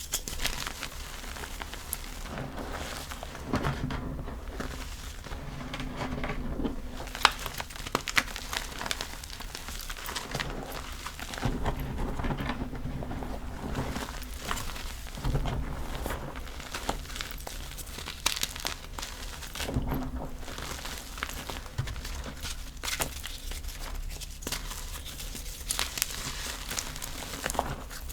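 Gym chalk being crushed and crumbled, with crunchy, powdery crackling in irregular clicks and crunches throughout.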